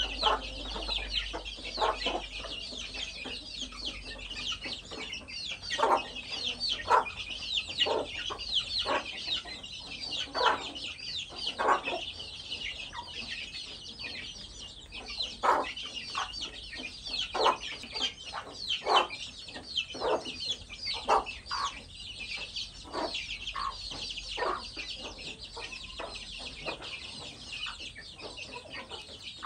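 A flock of chickens: a constant chorus of short, high, falling peeps with frequent separate clucks mixed in.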